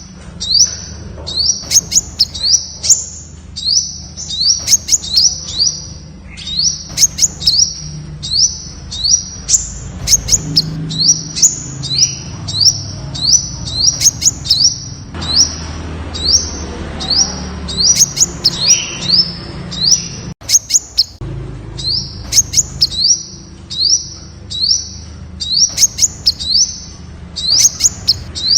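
Temminck's sunbird calling: a steady series of short, high chirping notes, about two a second, with sharp clicks among them and a brief pause about two-thirds of the way in.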